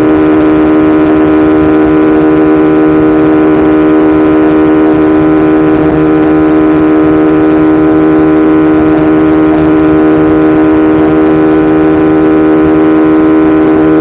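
2017 BMW S1000RR inline-four engine running loud at a steady, high engine speed while cruising, its pitch holding level throughout.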